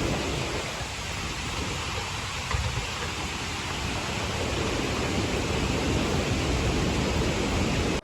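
Steady rushing roar of a waterfall, an even noise with no tone in it that cuts off suddenly at the end.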